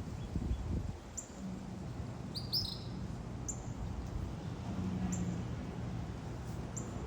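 A small songbird repeating short, high, downward chirps every second or two, with a quick run of several notes about two and a half seconds in. A low rumble runs underneath.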